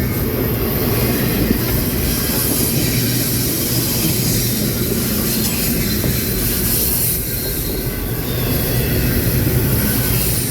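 Railroad cars rolling past steadily, a continuous rumble of wheels on rail.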